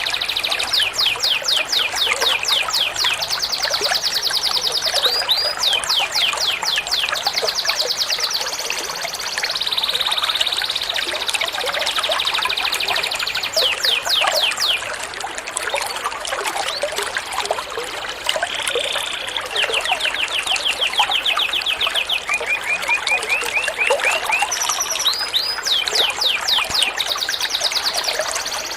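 Songbird song in repeated bursts of fast trills, each a rapid run of evenly spaced high sweeping notes, with short gaps between bursts, over steady trickling water.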